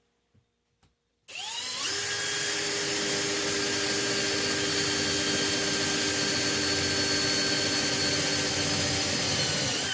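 Electric drill spinning up about a second in, then running steadily while drilling a hole in an aluminum bus bar.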